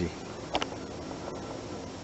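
Steady background noise, with one short sharp click about half a second in.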